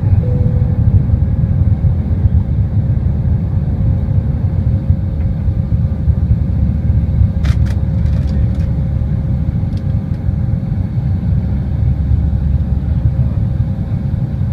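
Airliner's steady low rumble of engines and airflow, with a faint steady hum over it. A few short, faint clicks come a little past halfway.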